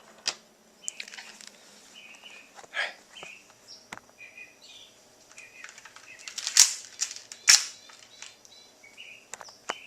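A bird singing at night in short, repeated chirping phrases, broken by sharp, loud cracks: a lesser one about three seconds in and two strong ones about a second apart past the middle.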